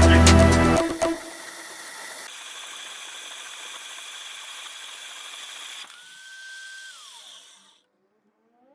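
Background music cuts off about a second in, leaving a steady hiss; near the end a small motor's whine holds, then falls in pitch and fades out as the machine winds down.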